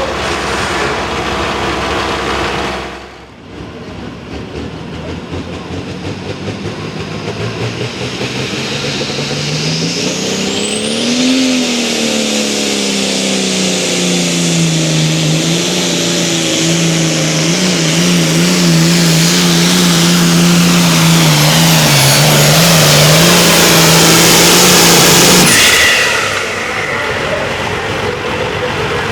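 A pulling tractor or truck's engine revs up at full throttle, its pitch rising, then holds high and wavering as it grows louder, and cuts off suddenly near the end.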